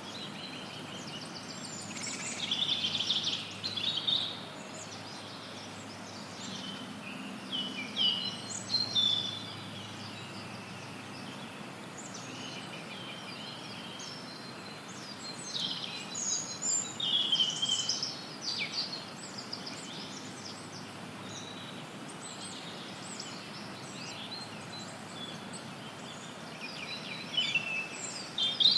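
Songbirds singing in four bursts of quick chirping phrases over a steady background hiss of white noise.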